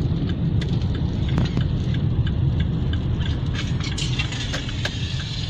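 Car driving at highway speed: a steady low rumble of road and engine noise, with scattered light ticks.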